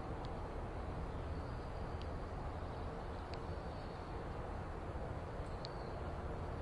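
Steady low outdoor rumble, with four short, high bird chirps spread through it.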